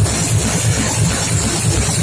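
Electronic dance music from a rave DJ set, taken straight from the mixing desk: a steady, heavy bass beat under dense, bright upper sounds.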